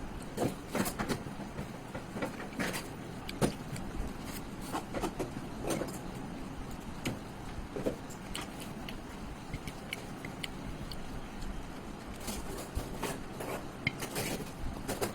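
Eating sounds of chicken liver curry with rice: irregular chewing, smacking and small clicks, with a steady low background noise under them.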